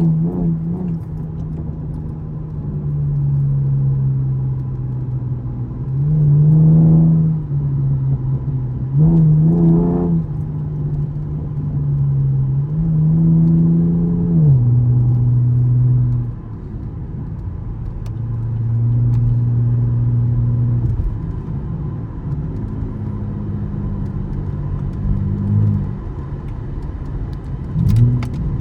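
2013 Camaro LS's 3.6-litre V6 engine accelerating and shifting: the revs climb briefly several times and drop back at each gear change, with a steady drone between.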